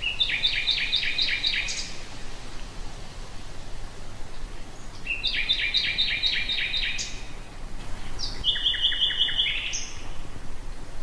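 Common nightingale singing: three phrases of rapidly repeated notes with pauses between, the last a held whistle over a trill, over a steady low background noise.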